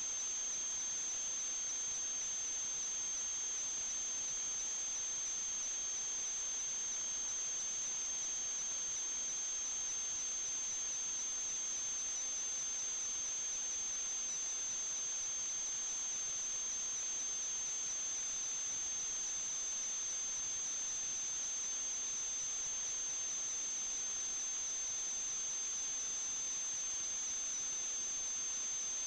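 Steady high-pitched electronic whine over a constant hiss, unchanging throughout: electrical noise on the recording's sound track rather than any sound from the pipe.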